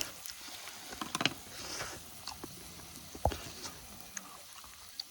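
Scattered light clicks and knocks, with one heavier knock a little over three seconds in.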